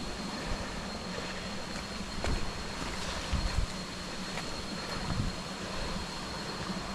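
A hiker's footsteps on the jungle floor, a few irregular low thuds, over a steady rushing background with a thin, steady high tone.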